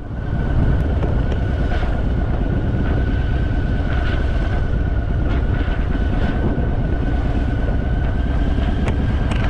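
Harley-Davidson Fat Boy's V-twin engine running steadily under way, heavy in the low end, mixed with road and wind noise and a faint steady whine.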